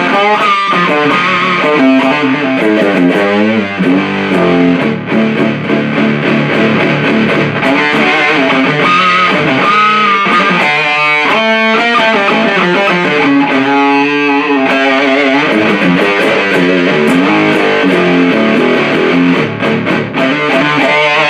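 Electric guitar played through a 77 Fuzz Blender fuzz pedal into an Orange Super Crush 100 amp, riffing with a super distorted fuzz tone, the pedal's tar (clipping) control turned up. A note is bent and held about nine seconds in.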